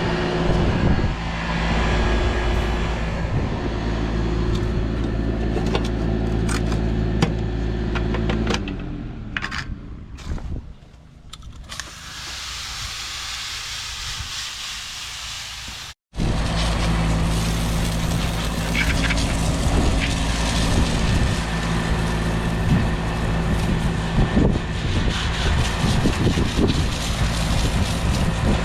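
Mini split outdoor condenser unit running with a steady motor hum. About eight seconds in the hum slides down and falls away, a hissing noise follows, and after a sudden break the steady running hum returns.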